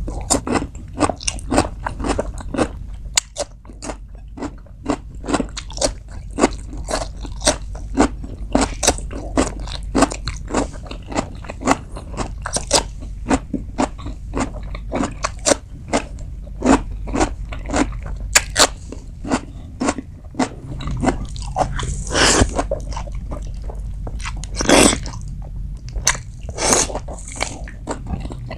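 Close-up crunching of fresh baby cucumber slices being bitten and chewed: rapid, crisp crunches several times a second. After about 20 seconds the crunches thin out into a few louder, longer chewing noises.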